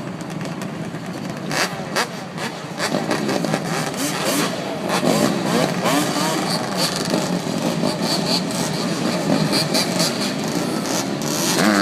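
Several dirt bikes and ATVs revving their engines, many overlapping engine notes rising and falling, growing louder about three seconds in.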